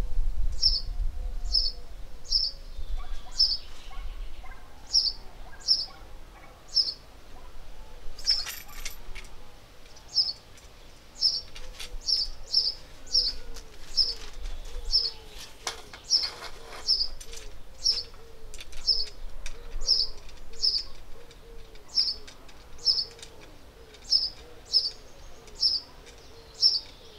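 A small bird chirping over and over, short high notes about twice a second. A few brief knocks and clatters come from a tripod stand being handled, about a third of the way in and near the middle.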